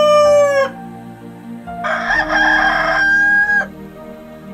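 Rooster crowing: the end of one crow right at the start, then a second full crow about two seconds in, rough at first and finishing on a held steady note before it stops.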